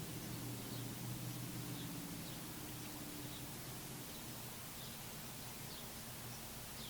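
Faint, short, high bird chirps from small songbirds, scattered irregularly over a steady outdoor hiss. A low steady hum sits underneath and fades out about halfway through.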